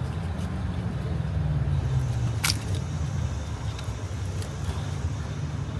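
A steady low rumble runs throughout. About two and a half seconds in comes a sharp plastic click, an electrical connector being pulled off a fuel injector or ignition coil, followed by a few fainter ticks.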